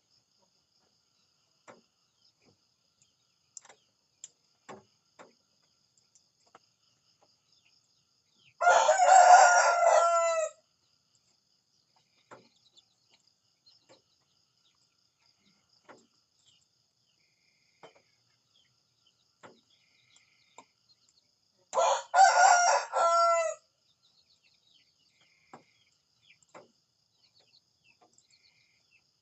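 A rooster crowing twice, each crow about two seconds long, the second coming some thirteen seconds after the first. Faint scattered ticks and clucks sound in between.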